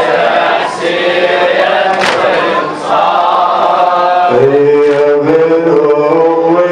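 Men's voices chanting a Shia mourning lament (latmiya) for Imam Hussein together, a drawn-out melodic refrain that moves to a new note about four seconds in.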